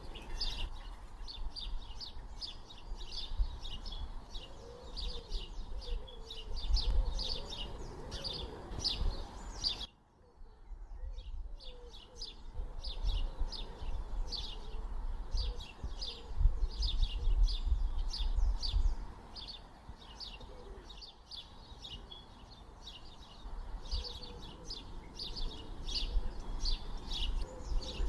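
Many small birds chirping in a rapid, continuous chorus, cutting out briefly about ten seconds in before resuming, over a low rumble.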